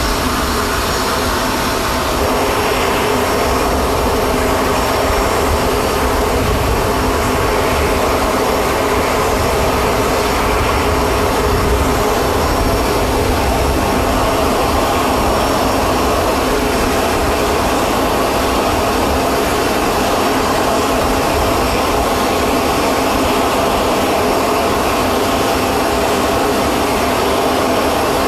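Steady whine and rumble of a jet turbine running on the ground, with several steady tones over a low roar.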